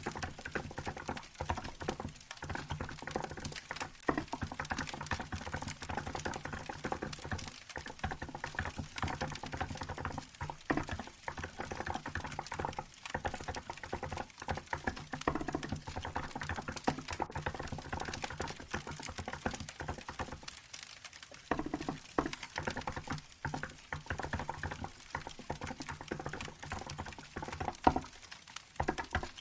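Fast, continuous typing on a Hansung GK868B capacitive keyboard with milk-white keycaps, the keystrokes running almost without a break apart from a short lull about two-thirds of the way through, over a wood fire crackling.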